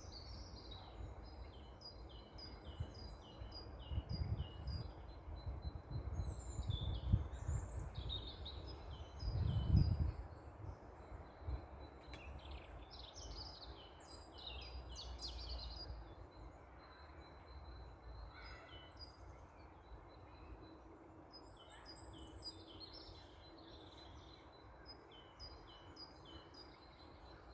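Songbirds singing, with series of short, quickly repeated high chirping notes, sometimes from more than one bird at once. A low rumble runs underneath and is loudest in the first ten seconds.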